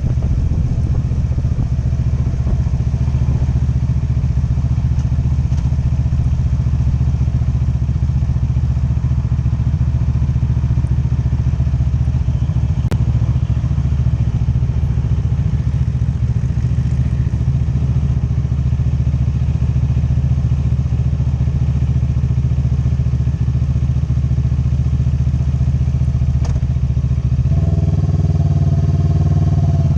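Motorcycle engine running steadily under way. Near the end its pitch steps up and rises as the engine revs up.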